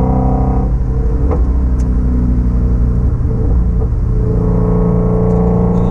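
Shelby Mustang GT350's 5.2-litre flat-plane-crank V8 and exhaust on a gentle drive. The engine lifts off the throttle under a second in and runs rough and uneven for a few seconds, then pulls steadily again from about four seconds with its pitch slowly rising.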